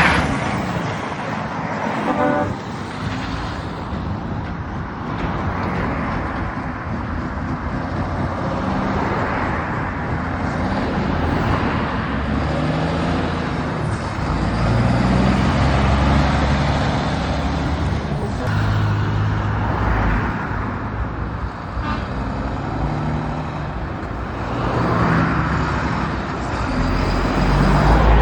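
Heavy trucks pulling away and driving past one after another, their diesel engines running loud and swelling and fading as each goes by, with a brief horn toot about two seconds in.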